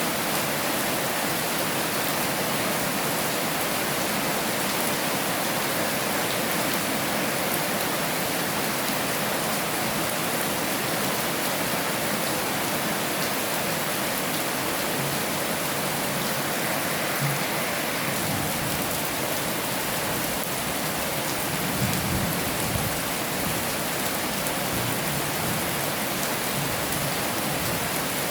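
Heavy rain falling steadily, an even hiss of many drops. About three quarters of the way through there is a brief low rumble.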